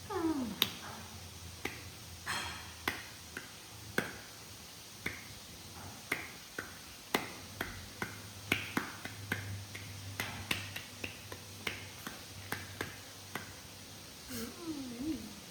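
A series of sharp, irregular clicks or smacks, roughly two a second, with a short falling squeak at the start and a short wavering squeak near the end.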